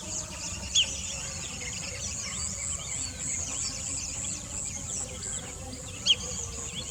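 Outdoor wetland ambience: a high insect trill pulsing about twice a second, with many short bird chirps and two louder calls, one about a second in and one near the end.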